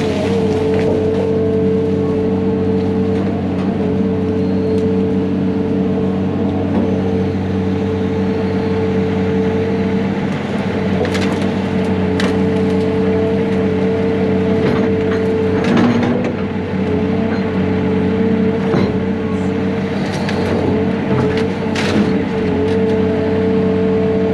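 A heavy equipment diesel engine runs steadily under load, with sharp cracks of wood splintering and snapping now and then, near the start, about 11 and 12 seconds in, and again around 16 and 22 seconds.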